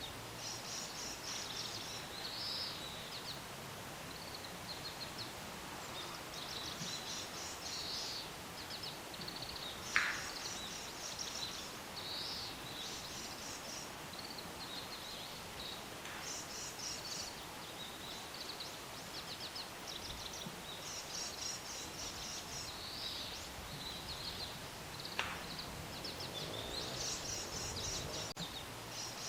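Small songbirds chirping over and over in short, high, rapid phrases every second or two, over a faint outdoor hiss. A single sharp tap comes about ten seconds in.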